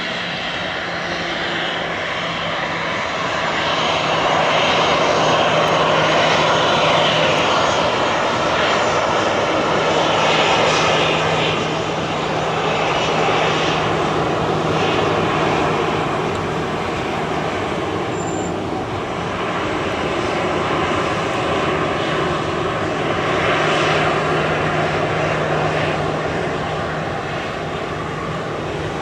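Boeing 737-800 jet airliner's CFM56 turbofan engines running, a steady low hum under a dense rush of jet noise that swells and eases several times.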